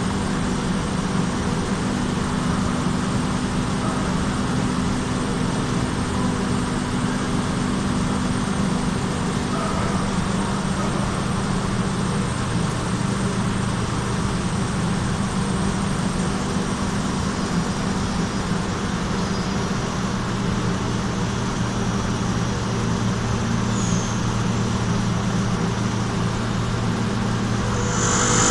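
Machine running steadily with a constant low hum and a faint high whine that fades out partway through.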